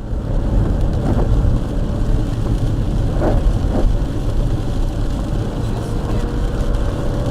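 Steady low rumble of road and engine noise from a car driving, as picked up by a dashboard camera, starting abruptly at a cut.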